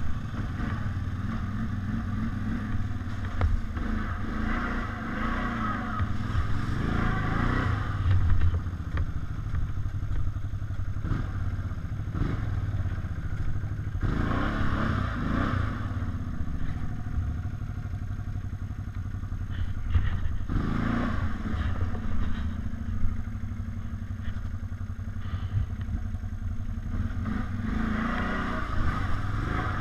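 ATV engine running under way off-road, its pitch rising and falling a few times as the throttle opens and closes.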